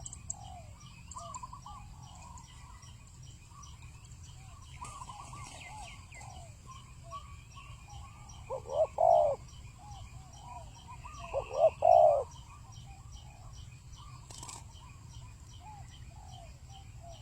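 Spotted doves cooing: two loud phrases of several coos, about nine and twelve seconds in, with fainter coos from other doves throughout. A steady, rhythmic high ticking runs underneath.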